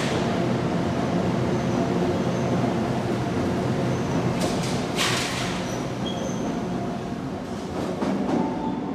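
Electric passenger train in an underground station, running with a steady hum, and a brief hiss about five seconds in.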